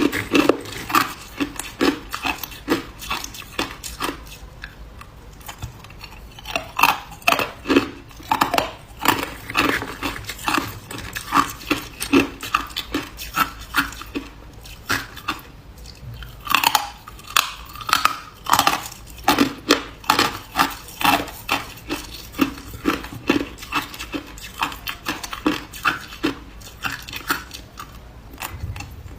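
Ice being chewed close to the microphone: a steady run of sharp crunches, about two a second, with a couple of short pauses.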